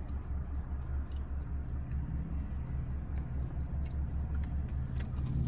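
Low, steady rumble of an idling car engine, pulsing evenly, with a few faint clicks over it.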